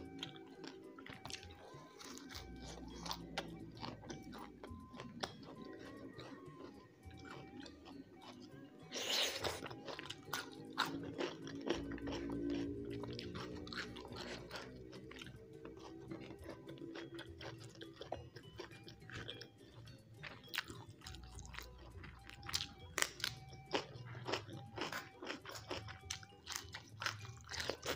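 Close-miked chewing and crunching of raw greens and rice, with many small wet mouth clicks and a louder crunch about nine seconds in. Soft background music plays underneath.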